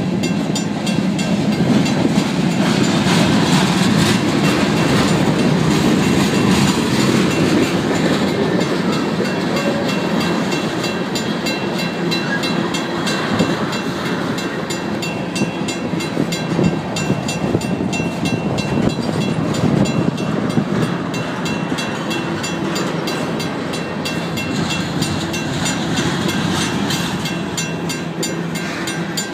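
An empty freight train's tank cars and covered hoppers rolling past close by, steel wheels rumbling and clacking over the rails. The crossing signal's mechanical bell rings steadily above it.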